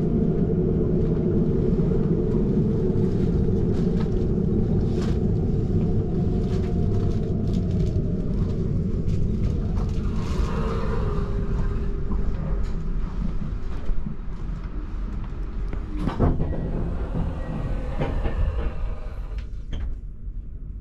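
Limited express Kamui electric train running along the line: a steady heavy rumble of wheels on rail, with a few sharp clicks. A whine falls slowly in pitch through the first half, and the rumble eases somewhat near the end.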